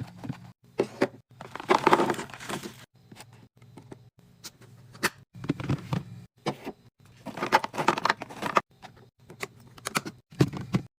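Food packaging and plastic containers being handled while a fridge is stocked: scattered clicks and knocks with crinkling and rustling, thickest twice, over a steady low hum.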